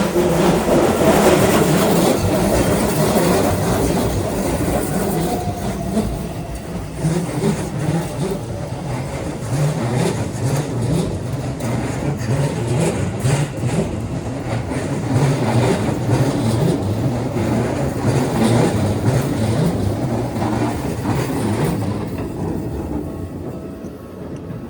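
Keisei electric train passing over a level crossing close by, its wheels clattering rhythmically over the rail joints. The sound fades away a couple of seconds before the end.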